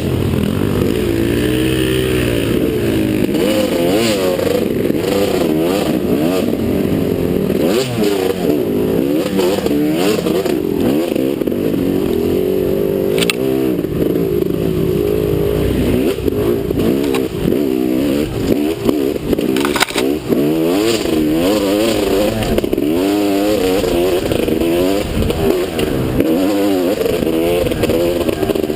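Motocross bike engine running hard, its pitch climbing and dropping back again and again as it revs up and eases off. A few sharp knocks come through partway.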